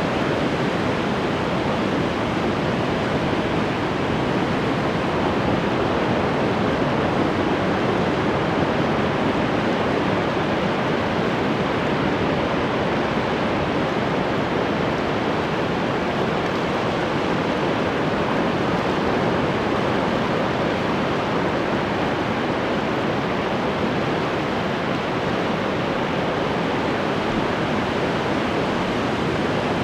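Ocean waves washing onto a shore, a steady, unbroken rush of surf with no single distinct breaking crash.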